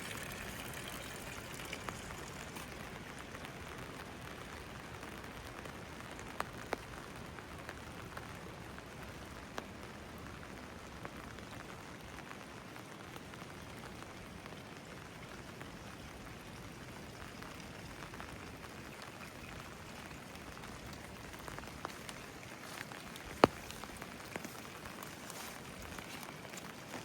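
Steady rain falling on stone and hard surfaces, with scattered sharp drip ticks and one louder drop striking something near the end.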